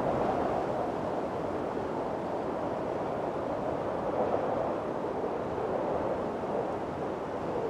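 Strong wind blowing steadily in a windstorm, a dense rushing noise that swells and eases slowly.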